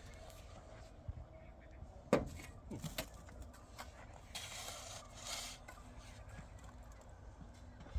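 Scattered knocks and scrapes, with one sharp knock about two seconds in the loudest and a rough scraping stretch near the middle.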